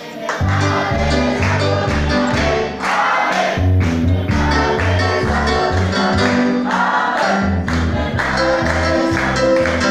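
A group of voices singing a Christian chorus over loud gospel backing music with a pulsing bass line and a steady beat.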